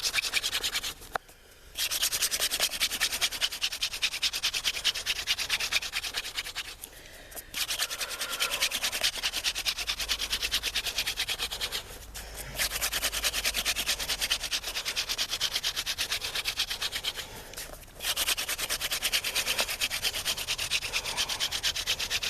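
Wooden hand-drill spindle spun back and forth between the palms, grinding in the notch of a hearth board, a fast rasping friction sound. It stops briefly four times as the hands return to the top of the spindle. The wood is hard and glossy, the glazing that keeps it from making an ember.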